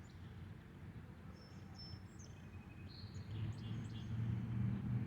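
Small birds chirping and twittering in short high calls, over a low hum that swells louder toward the end.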